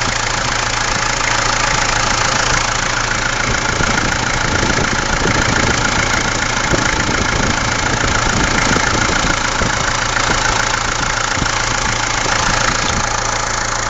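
Mahindra MM 540 DP tractor's diesel engine running steadily at idle.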